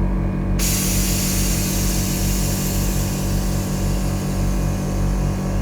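Air-bag suspension on a Nissan 370Z Nismo letting air out to lower the car: a loud, steady hiss that starts suddenly about half a second in. Under it runs a steady low rumble.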